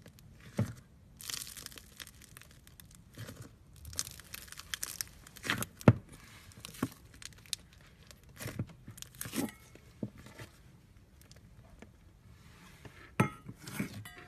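Foam-bead slime (floam) being squeezed and stretched by hand, giving off irregular crackling, crunching and sticky popping, with a few sharper pops.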